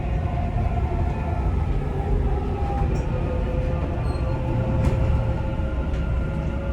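Dubai Metro Red Line train running between stations, heard from inside the carriage: a steady low rumble with a faint steady whine and a few light clicks.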